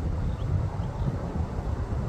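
Strong wind buffeting the microphone: an uneven low rumble.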